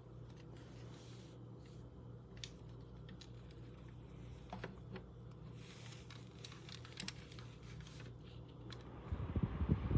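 Faint scattered clicks and taps over a low steady hum. About nine seconds in, a low rushing noise starts and grows: air from the USB desk fan beginning to hit the microphone.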